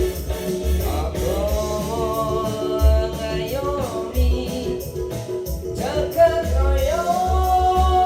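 A song with instrumental backing: a voice sings long held notes that slide into pitch, over a steady low beat and guitar.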